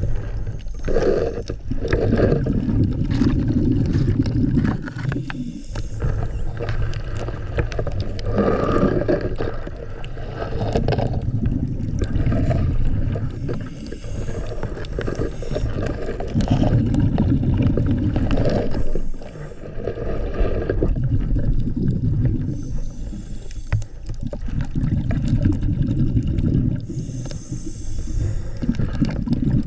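Underwater sound of a diver breathing from a hookah air line: exhaled bubbles gurgling in long bursts a few seconds apart, with quieter gaps between.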